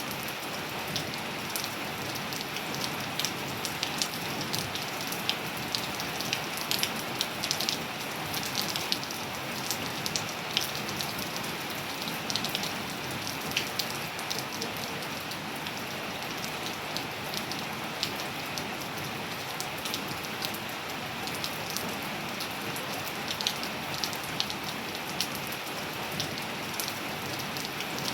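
Steady rain falling on a hard surface, a continuous hiss with many sharp individual drop splashes and ticks.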